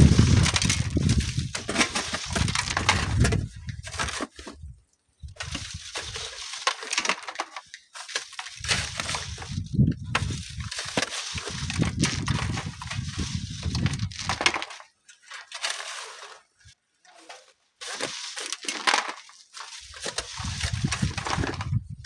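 Strong wind gusting over the microphone in deep rumbling surges, with crunching and clattering of sand and stones being worked at a sand-mining cliff.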